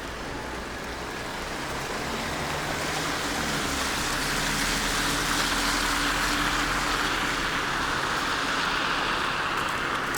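A car driving past on a snowy street: a tyre hiss that swells over a few seconds and stays up, with a faint low engine hum under it.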